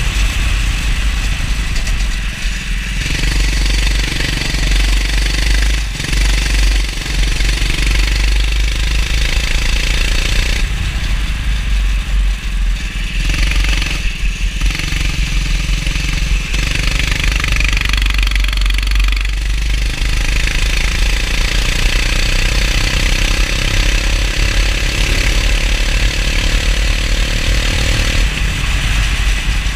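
Go-kart engine running hard, its pitch climbing and dropping again and again as the kart accelerates and lifts off, over a steady deep rumble and hiss.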